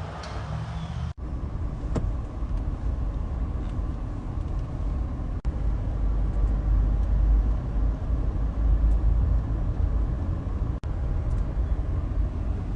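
A car driving: a steady low rumble of road and engine noise, broken by brief sudden dropouts about a second in, about five seconds in, and near the end.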